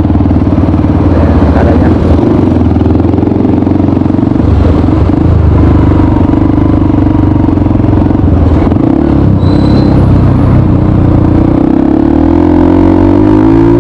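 Honda CRF150L single-cylinder four-stroke engine running loud through a Norifumi RV1 N4 aftermarket exhaust, its note dipping and picking up again a few times, with the pitch sliding near the end.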